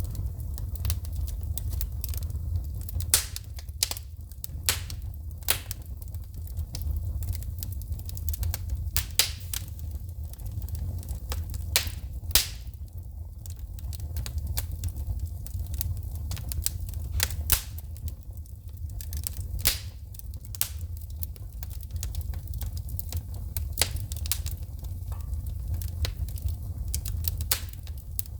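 Wood fire burning in a fireplace, crackling and popping with many sharp snaps at irregular intervals, a few louder pops among them, over a steady low rumble of the flames.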